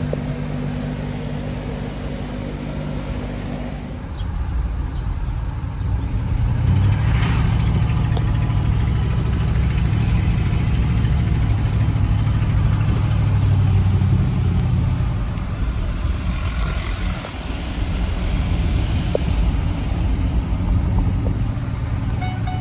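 2003 Ford F350 pickup truck running. Its engine note changes and grows louder about four seconds in, and dips briefly later on.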